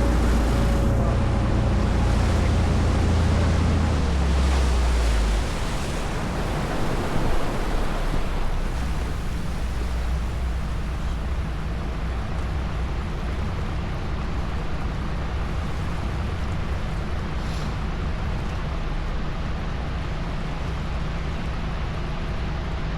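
Small tour boat under way: the engine's low rumble with a steady rush of water and wind. The rumble drops off about five seconds in, leaving mostly the even hiss of water and wind.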